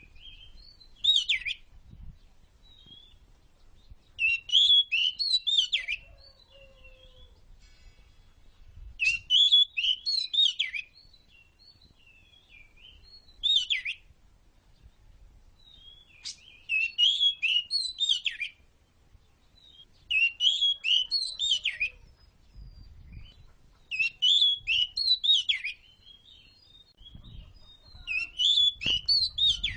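Oriental magpie-robin (kacer) singing: about eight bursts of rich, high, warbling song, each a second or two long, with short pauses between them.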